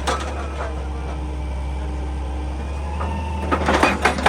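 Heavy diesel excavator engine running with a steady low drone. A few louder knocks come near the end.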